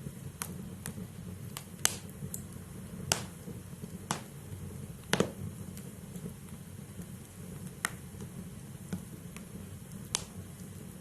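Wood logs burning in a fireplace: sharp, irregular crackles and pops over a low, steady rumble of the flames, with the loudest pop about five seconds in.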